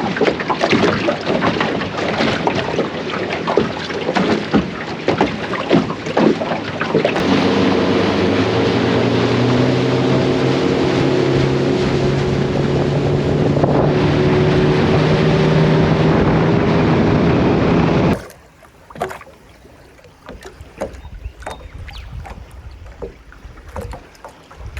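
Boat underway: an outboard motor running with loud wind and water noise, the engine's steady hum standing out from about seven seconds in. About eighteen seconds in it cuts off abruptly to much quieter outdoor ambience with scattered faint clicks.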